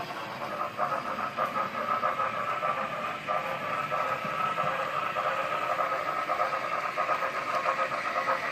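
HO scale model train running on its track: a steady motor whine with a fast, fine rattle of wheels on the rails.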